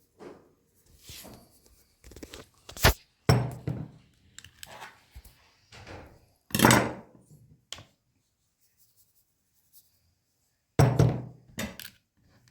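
Irregular thuds and knocks, with a sharp click about three seconds in and a few heavier thuds spread through, then a quiet stretch before a last loud thud near the end.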